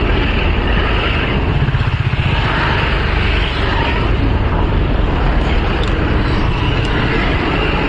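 Vehicle running along a road: steady engine and road rumble.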